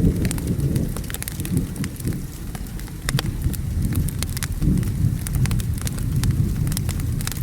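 Wood fire crackling with many scattered sharp pops, over steady rain and a low rolling rumble of thunder that swells and fades.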